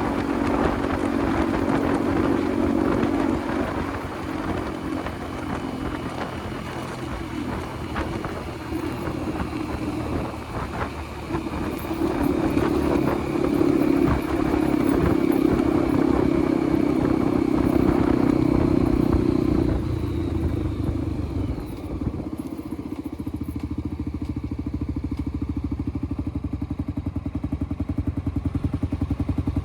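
Motorcycle engine running on the move, pulling harder for a while from about twelve seconds in, then easing off and settling to a steady, evenly pulsing idle in the last several seconds.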